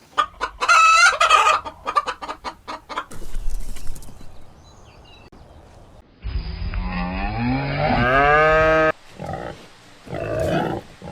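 Chickens clucking in a quick series of short calls, then a rooster crowing one long call of about three seconds that rises and then holds, followed by a few shorter clucks.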